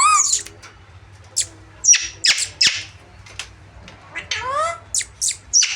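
Pet parrots squawking: a string of short, sharp, high-pitched screeches, with a rising, drawn-out call at the start and another about four and a half seconds in.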